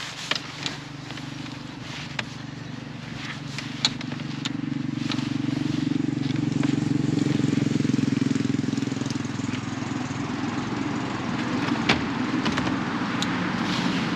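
A steady low engine hum, as of a motor vehicle running nearby, growing louder from about four seconds in and holding. Scattered light clicks come in the first few seconds.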